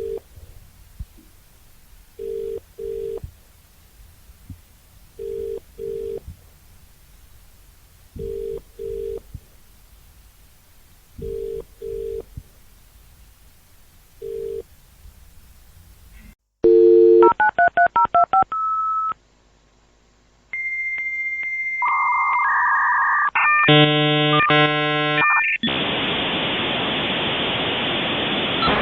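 Telephone ringback tone on the line: a low double ring repeating about every three seconds. After a cut about 16 seconds in, there is a loud tone, a quick run of dialing beeps, a short pause, then several steady electronic tones and a screech. From about 26 seconds a steady hiss follows, like a dial-up modem connecting.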